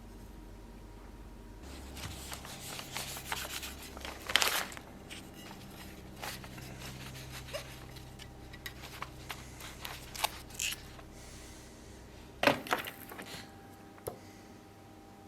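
Scattered light scrapes, rubs and small clicks of hand work with tools and metal, two of them louder, over a faint steady low hum.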